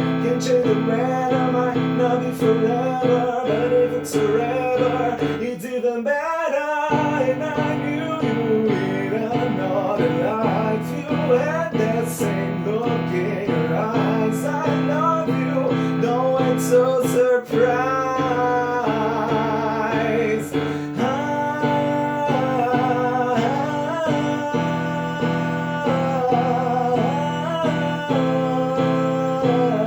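Music: acoustic guitar strumming chords with a wordless melody line over it.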